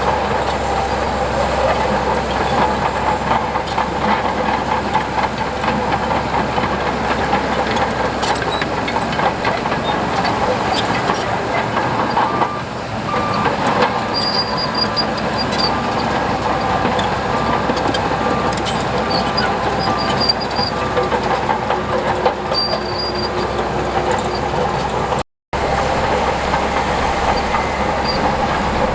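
Heavy diesel earthmoving machinery working steadily, with metallic clanking. From about 12 seconds in, a reversing alarm beeps evenly for roughly ten seconds. The sound cuts out for an instant near the end.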